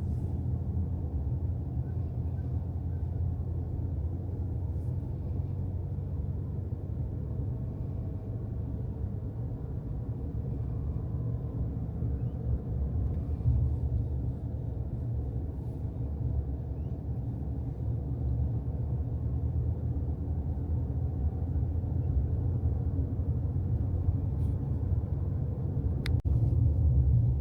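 Steady low rumble of a moving car's road and engine noise, with a single sharp click near the end.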